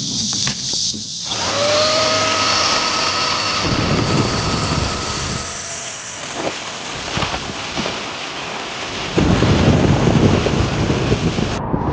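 Heavy rain, starting about a second in, with a rumble of thunder that comes in suddenly about nine seconds in.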